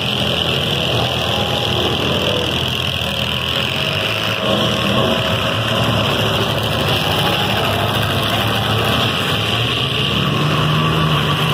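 Engines of several demolition derby cars running together in a steady, loud din.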